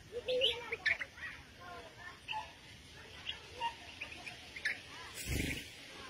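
Small birds chirping in short, scattered calls. A brief rushing noise comes about five seconds in.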